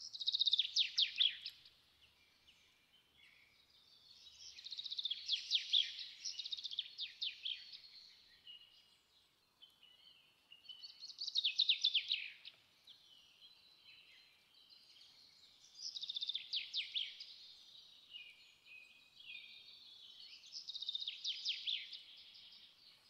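A small bird singing: phrases of high, rapid trilled chirps about every four to five seconds, with fainter twittering between them.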